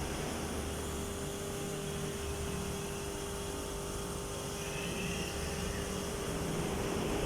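Industrial sewing machine running, a steady mechanical hum with a constant whine and a low rumble that comes and goes.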